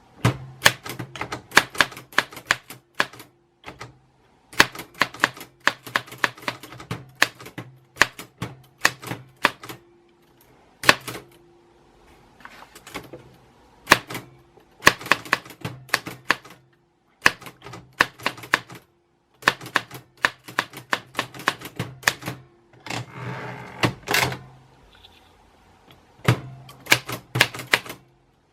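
Typewriter keys striking in quick runs with short pauses between them. Near the end there is a short rasp.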